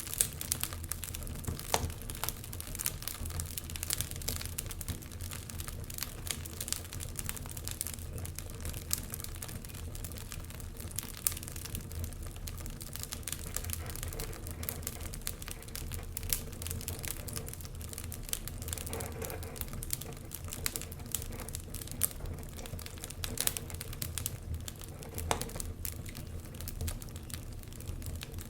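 Wood fire crackling: logs burning with dense, irregular snaps and pops over a low steady rumble.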